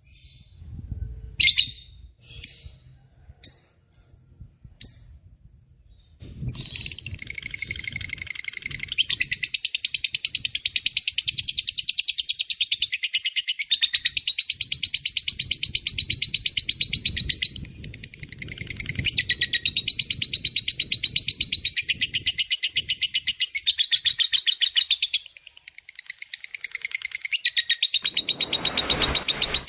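Lovebird 'ngekek' chattering: a few short separate chirps, then a long, very fast rattling trill sustained for many seconds, broken by two short pauses.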